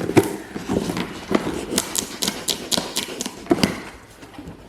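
A cardboard box and its packaging being handled and opened by hand: a quick run of taps, knocks and crinkles, busiest in the middle.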